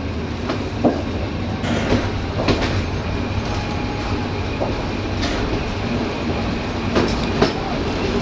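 Passenger train running along the track, heard from aboard: a steady low rumble of wheels on rail with irregular clacks every second or two as the wheels cross rail joints.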